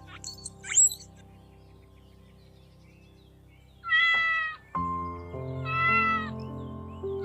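A cat meowing twice, two short high-pitched meows about two seconds apart, over background music. A few sharp high chirps come in the first second.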